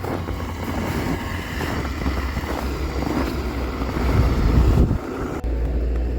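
Wind buffeting the microphone outdoors: a loud, uneven low rumble under a broad rushing noise, which changes abruptly about five seconds in.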